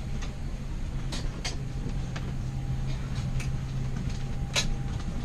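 Steady low vehicle-cabin hum with a held low drone that drops out near the end, and a few scattered light clicks and rattles.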